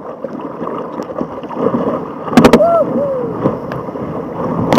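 Sea water sloshing and splashing around a sit-on-top kayak in surf, with a few sharp knocks about halfway, a short wavering cry just after, and a louder rush of water near the end.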